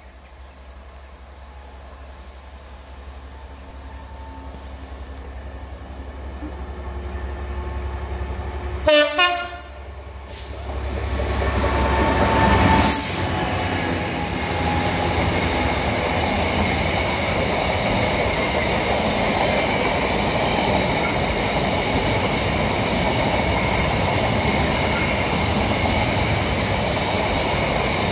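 Class 66 diesel locomotive's two-stroke V12 engine growing louder as it approaches, sounding its horn in two short blasts about nine seconds in. The locomotive passes a few seconds later, and a long intermodal train of container wagons follows with a steady rush of wheels on the rails.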